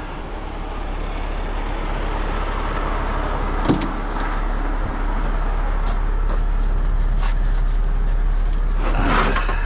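Heavy truck diesel engine running steadily, growing louder over the first few seconds, with a single sharp metallic clank about a third of the way in.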